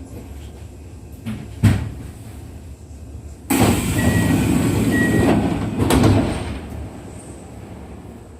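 Kintetsu 1233 series train's pneumatic sliding doors opening at a station stop: a thump about two seconds in, then a sudden loud hiss of air lasting about three seconds, with two short high beeps in it.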